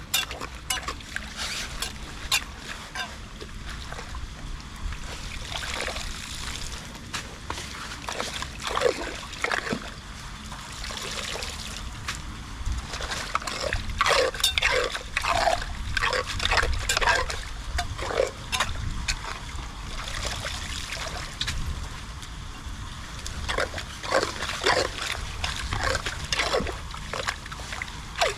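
Water splashing and trickling, with many short, irregular splashes over a steady low rumble.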